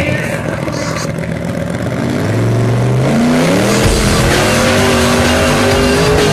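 Drag truck engine at full throttle, its pitch climbing steeply about two seconds in and then holding high as the truck accelerates down the strip.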